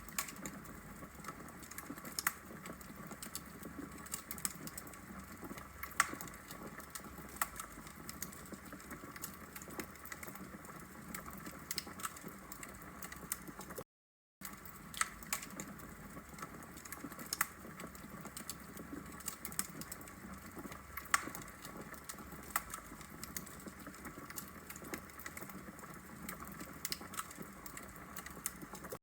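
Wood logs burning in a fireplace: a steady low hiss with frequent sharp crackles and pops, a few of them louder, and a brief drop to silence about halfway through.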